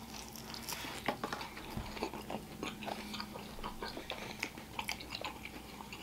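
Close-miked biting and chewing of a sticky-glazed Korean fried chicken wing: irregular wet smacks and small clicks as the meat is pulled off the bone and chewed.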